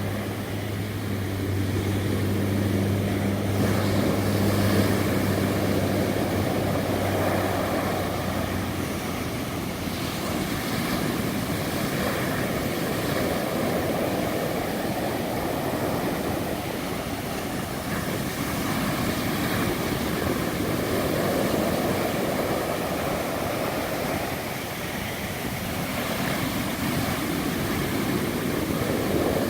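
Atlantic Ocean surf, a steady rush of waves that swells and eases every few seconds. A low, steady engine hum runs beneath it and stops about nine seconds in.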